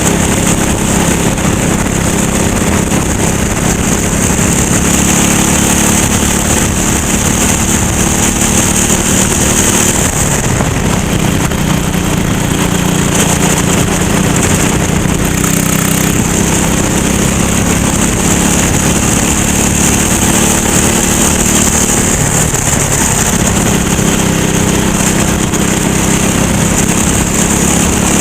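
Racing kart engine running hard at speed, its note dipping briefly twice, about ten and twenty-three seconds in.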